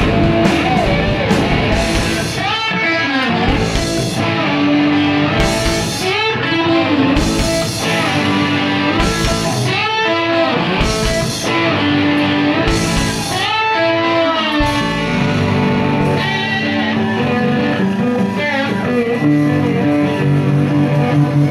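Live rock band playing an instrumental passage. An electric lead line slides and bends between notes over steady bass and drums, with repeated cymbal crashes.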